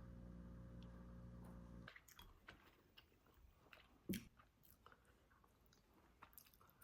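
A steady low hum stops suddenly about two seconds in. Then come quiet chewing and crunching sounds of someone eating, with one louder thump about four seconds in.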